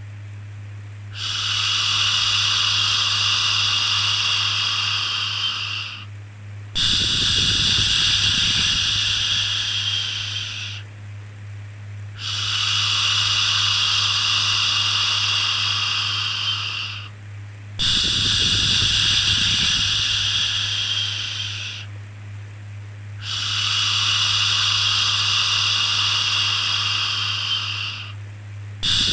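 A soothing 'shhh' shush repeated over and over, each long hiss lasting four to five seconds with a short pause between, about six times, over a steady low hum.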